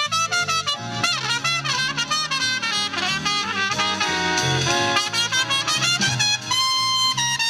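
Big band playing an instrumental passage: trumpets and saxophones over a stepping bass line, settling into a long held chord near the end.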